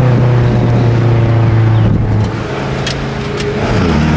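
Twin-turbo V8 of a tuned BMW M5 accelerating, a loud steady engine drone. It eases a little past halfway, and near the end the pitch dips and climbs again.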